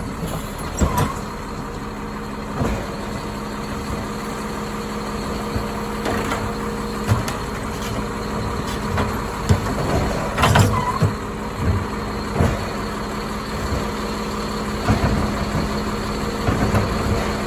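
Autocar ACX Labrie Automizer garbage truck running at a steady idle with a constant hum. Short clunks and knocks come every second or few seconds, with a louder cluster of knocks past the middle, as the truck works its recycling load.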